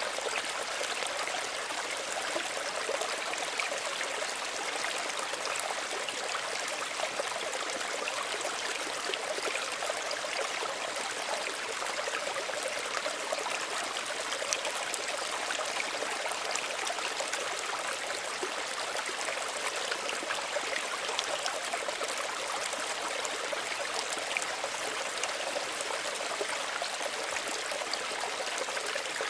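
Small stream running steadily over stones, a continuous trickling and bubbling of shallow water without change.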